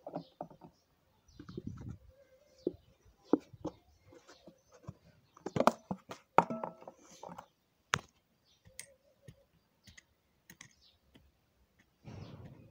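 Small objects handled by hand: irregular light clicks and taps, a few sharper knocks in the middle, and brief rustles near the start and end.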